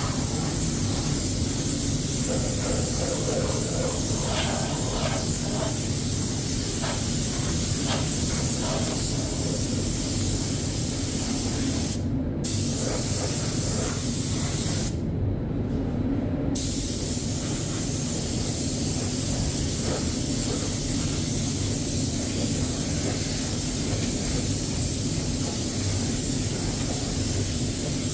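Paint spray gun hissing steadily as it sprays primer, the hiss cutting out briefly twice past the middle as the trigger is let off, over a steady low hum.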